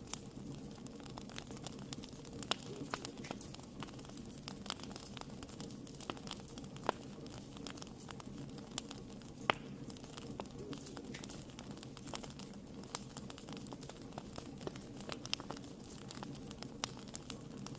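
Wood fire burning in a fireplace: irregular sharp crackles and pops over a steady low rumble of the flames, with one louder pop about nine and a half seconds in.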